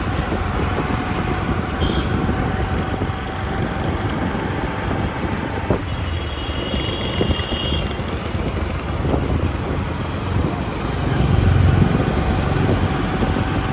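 Road traffic noise: a steady rumble of passing vehicles, swelling about eleven seconds in.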